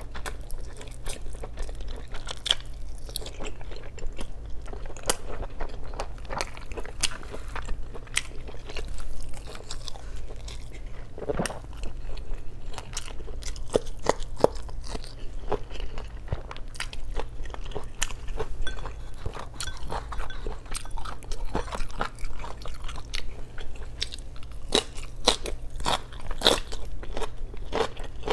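Close-miked eating: a person biting and chewing braised pork belly adobo and a red chili, with many short sharp mouth clicks throughout.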